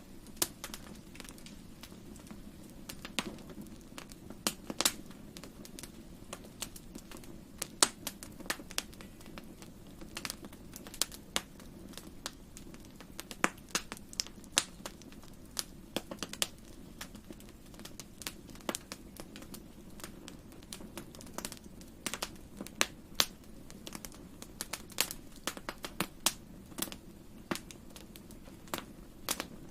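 Wood fire in a fireplace crackling, with irregular sharp pops and snaps of varying loudness over a steady low rumble of the burning.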